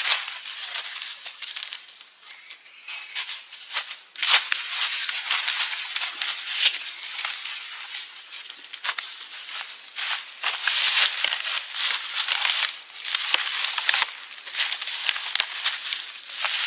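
Dry leaves and twigs rustling and crackling unevenly as they are handled, with many small snaps.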